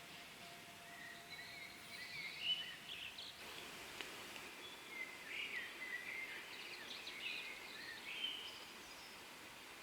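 Small birds chirping and singing in short, quick phrases over faint, steady background noise.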